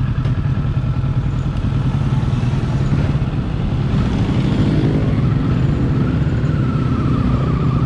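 Motorcycle engine running steadily under way, with road and wind noise. A faint wavering tone joins about six seconds in.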